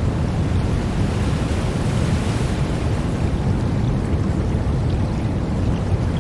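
Steady brown noise: an even, deep rushing hiss, strongest in the bass, with no rise and fall.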